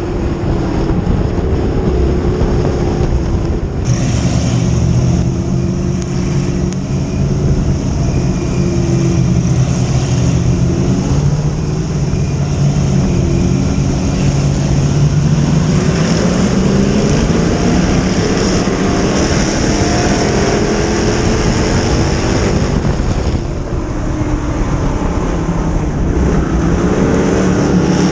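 Dirt-track modified race car engine running at speed on the track, its pitch falling and climbing with the throttle, with a clear rise in pitch about halfway through as it accelerates.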